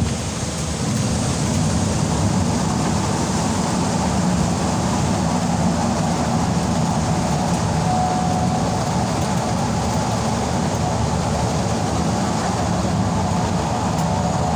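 Steady engine and propeller drone of a small Susi Air propeller plane in flight, heard inside the passenger cabin. A few faint steady tones come up in the drone after about the middle.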